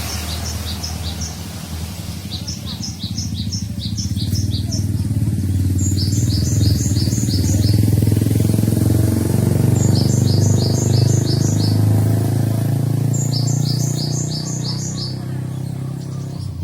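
Gelatik batu (cinereous tit) calling: quick bursts of about six short, high, clipped notes, repeated every few seconds in a regular pattern typical of a lure call. Underneath, a motor vehicle's engine rumble swells and then fades in the middle, and this is the loudest sound.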